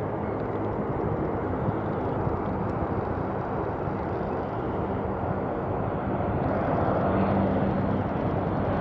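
Aircraft engines running with a steady hum, growing louder about seven seconds in.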